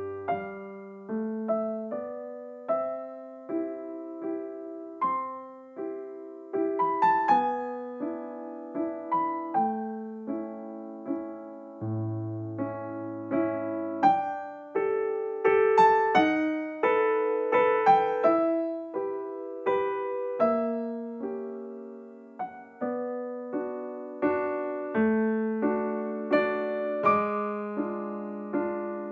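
Background piano music, a gentle melody of struck notes that ring and fade.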